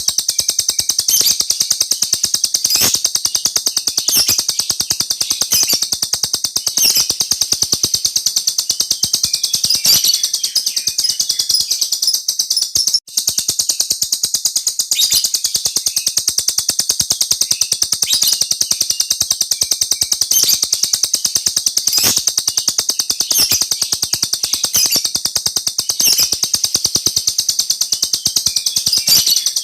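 A small songbird singing a long, continuous rolling trill: very rapid high-pitched notes run together without pause, broken only once by a momentary gap about halfway through.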